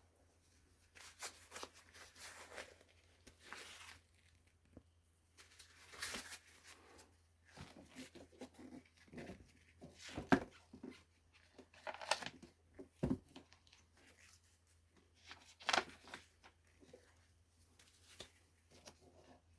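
Intermittent handling noises: scattered rustling and scraping with small sharp clicks, the loudest a little over ten seconds in and again near sixteen seconds.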